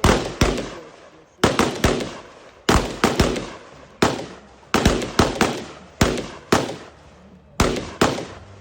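A string of about sixteen gunshots, many fired as quick pairs a few tenths of a second apart, each shot trailing off in an echo.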